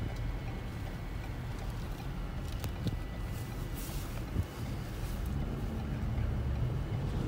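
Blizzard wind buffeting the microphone: a steady low rumble with a few faint clicks, growing slightly louder near the end.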